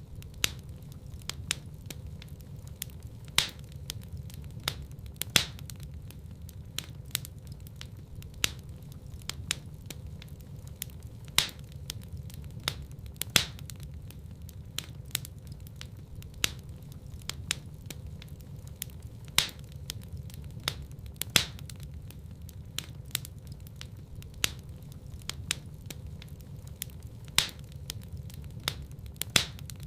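Wood fire burning in a fireplace: sharp crackles and pops at irregular intervals, several a second, over a steady low rumble of the flames.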